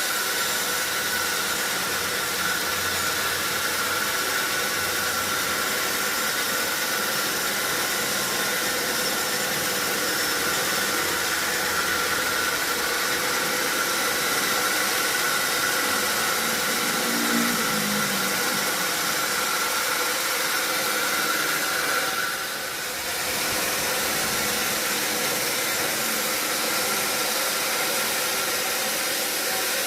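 Sawmill saw running steadily, a loud, even rushing noise with a steady high whine that drops out for a moment about three quarters of the way through.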